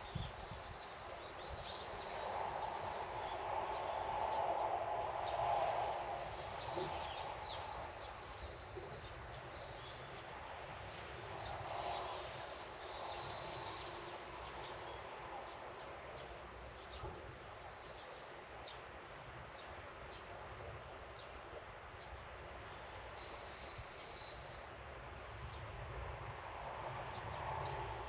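Small birds calling in short clusters of high, arched chirps a few times, over a steady outdoor background hiss that swells now and then.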